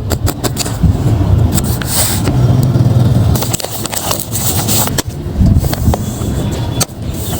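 Hands unpacking paper blind bags: paper crinkling, rustling and scraping, with many sharp crackles and clicks and a low rubbing rumble.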